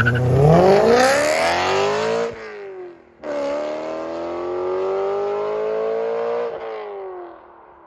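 2011 BMW M3 E92's 4.0-litre V8, fitted with an X-pipe and modified stock mufflers, accelerating hard. The engine pitch climbs steadily, breaks off sharply about three seconds in, then climbs again in a longer pull that drops away and fades near the end.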